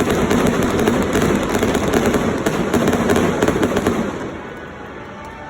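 Fireworks display: a dense run of rapid bangs and crackles that dies away a little after four seconds.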